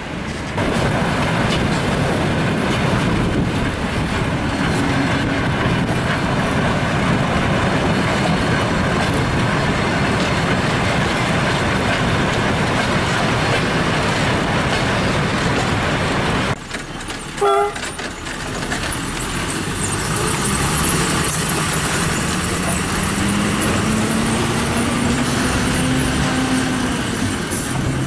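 Diesel-hauled train of old passenger coaches rolling past, wheels clattering over the rail joints. About two-thirds of the way through, after a cut, a short horn toot, then the diesel engine speeding up with a slowly rising drone.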